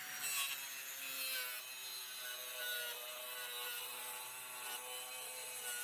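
Electric saw cutting through a plywood sheet, running steadily with a motor whine and the rasp of the blade in the wood.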